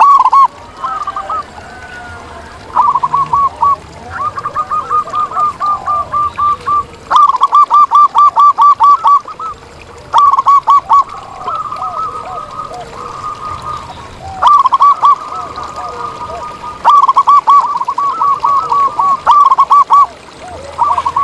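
Zebra doves (perkutut) singing: repeated phrases of quick, clipped cooing notes, about eight a second, with softer calls from other doves underneath.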